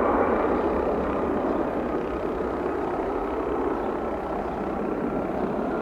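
Learjet 45's twin Honeywell TFE731 turbofans at takeoff power as the business jet climbs away, a steady jet rumble with a faint whine that slowly fades.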